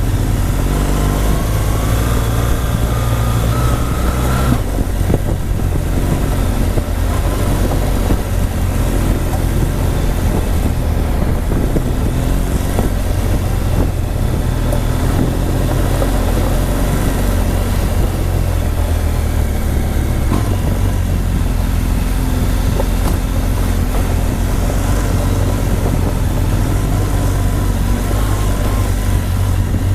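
Motorcycle on the move: steady engine and heavy low wind rumble over the microphone, with a rising engine note that breaks off about four and a half seconds in.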